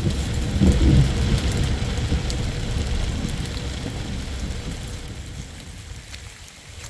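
Thunder rumbling and dying away under steady rain, with scattered raindrops ticking on surfaces.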